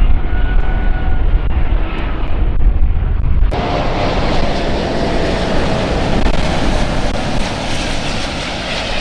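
Airplane engine sound effect: steady, loud engine noise that starts and stops abruptly, with a sudden change in its character about three and a half seconds in, where a second take is spliced on.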